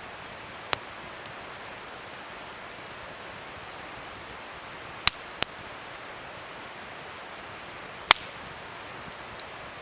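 Wood fire burning with a steady hiss, broken by four sharp pops: one near the start, two close together about halfway, and the loudest about eight seconds in.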